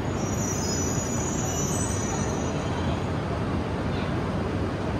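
E3-series shinkansen creeping slowly up to a waiting E2-series train to couple, a steady low rumble with a high thin squeal from the wheels or brakes for the first two seconds or so.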